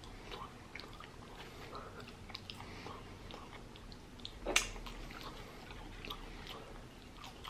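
Close-miked chewing of french fries, with soft wet mouth clicks, and one sharper mouth smack about four and a half seconds in.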